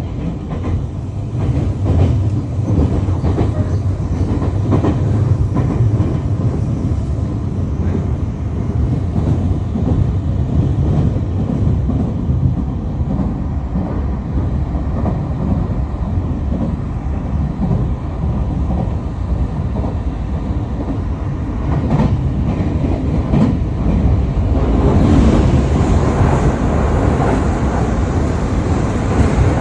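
A train running on rails: a steady low rumble with occasional clicks of the wheels, getting louder about 25 seconds in.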